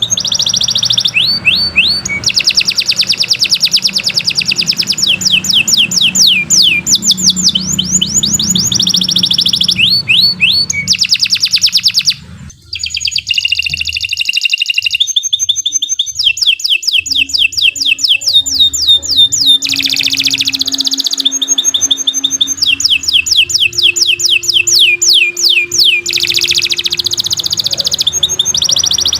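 Domestic canary singing a long, continuous song of rapid trills and fast runs of repeated sweeping notes, breaking off briefly about twelve seconds in before carrying on.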